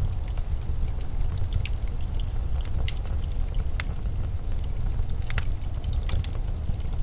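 Steady low rumble of winter storm wind, with scattered sharp crackles and ticks over it.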